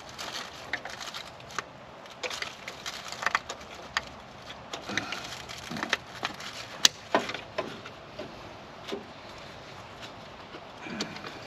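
Irregular clicks, taps and light scraping of tools and small ignition parts being handled during work on a car's distributor, with one sharp click about seven seconds in.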